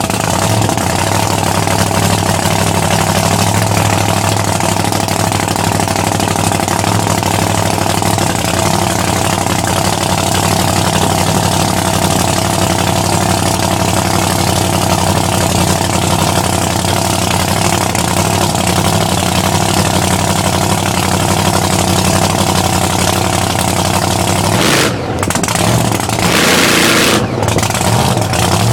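Supercharged engine of a 1966 Chevy truck running loud and steady, held at revs on a two-step rev limiter. There is a brief drop about 25 seconds in and a short blip of revs near the end.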